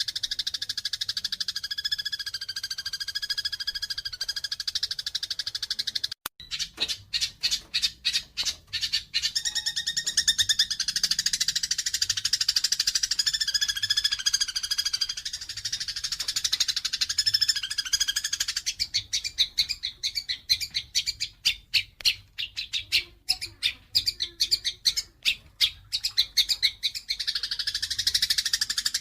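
Eurasian tree sparrows chattering and squabbling, the agitated calls of sparrows fighting. A dense, high-pitched twittering is broken by fast runs of sharp, separate chirps twice: once a few seconds in and again through much of the second half.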